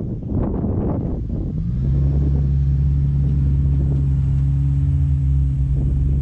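Car engine working under load during a snow recovery with a tow strap: a rough rumble for the first second and a half, then a loud, steady low drone at constant revs.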